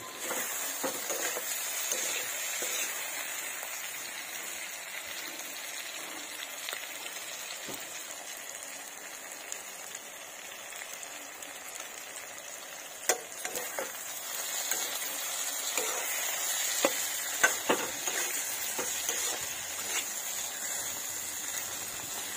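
Vegetables frying in oil in a metal karahi, a steady sizzle throughout. A metal spatula knocks and scrapes against the pan a few times, sharpest at about 13 and 17 seconds in.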